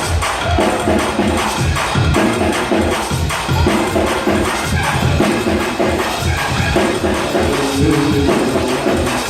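Fast, loud church praise-break music: drums, bass and keyboard playing a quick even beat, with tambourine jingling along.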